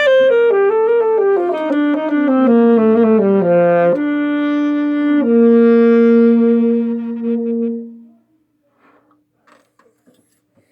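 Alto saxophone playing the closing phrase of a melody over a low sustained accompaniment: a run of notes stepping downward, then a long held final note that fades out about eight seconds in. A few faint clicks follow.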